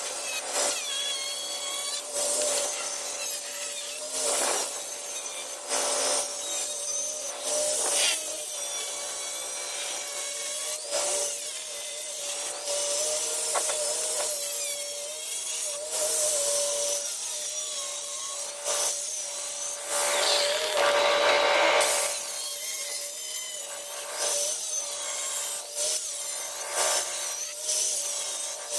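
Electric grinder running with a steady whine, its disc rasping in repeated irregular bursts as it grinds away at tile.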